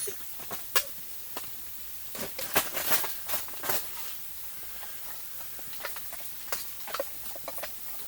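Irregular clicks and light knocks, a dense cluster of them about two to four seconds in, over a faint steady hiss.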